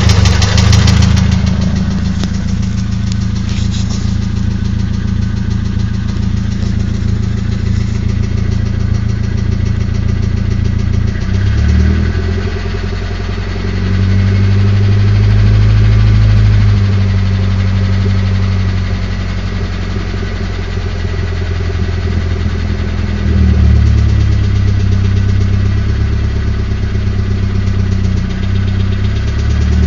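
Nissan SR20DET turbocharged four-cylinder engine idling with a knocking, tapping sound that comes only at low idle, which the owner suspects is the VCT (variable cam timing) gear; new rocker arms and lifters have not cured it. The engine note shifts and swells a couple of times.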